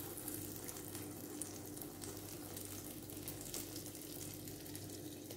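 Medu vadai (urad dal fritter batter) frying in hot oil: a steady, soft sizzle of bubbling oil around the fritter.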